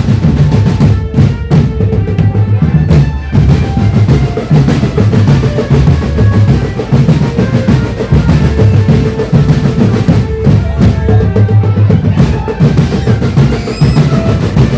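Marching drum band playing a lively tune: dense, continuous bass-drum and snare beats with rolls, and a melody line on top.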